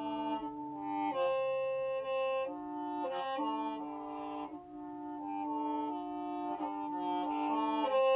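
Qeej, the Hmong free-reed bamboo mouth organ, being played: several reed tones held together, stepping to new pitches every second or so without a break in the sound.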